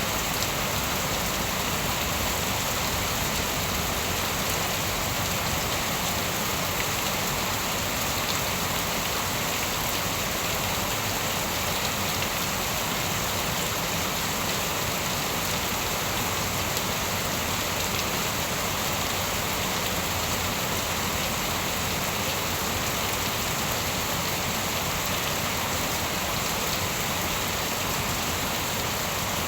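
Steady rain falling and pattering on surfaces, an even hiss at a constant level with no thunder claps.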